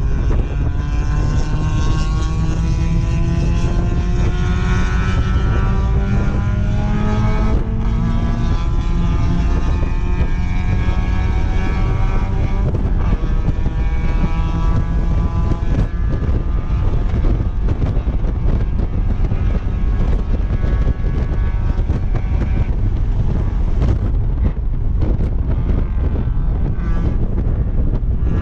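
Mazda MX-5 Miata's four-cylinder engine running under load on track, its pitch rising slowly as the car accelerates, under heavy wind buffeting in the open-top cabin.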